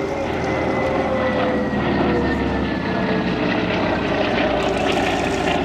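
Lockheed Hudson's twin radial engines droning in a flypast, the engine note falling slowly in pitch as it passes.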